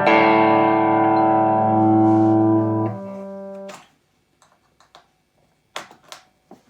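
Les Paul electric guitar played through a Marshall 2204 clone valve amplifier, picked up by a phone's microphone: one chord struck and left ringing for about three seconds, then damped and fading out, followed by a few faint clicks and taps.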